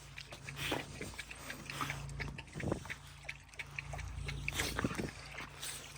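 Dogs moving about close by, with a few short low sounds from the animals and many scattered small clicks and scuffles.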